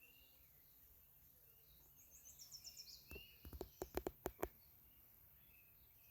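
Faint outdoor birdsong: scattered chirps and a short, high trill stepping downward about two seconds in. A quick run of sharp clicks follows about a second later and is the loudest thing heard.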